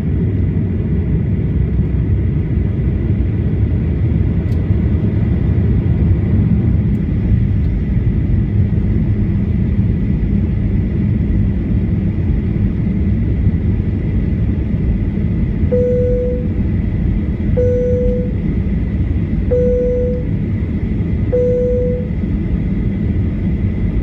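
Inside the cabin of a Boeing 737-800 on the ground: its CFM56 jet engines run with a steady loud rumble and a thin steady whine. Near the end, four short, even beeps sound about two seconds apart.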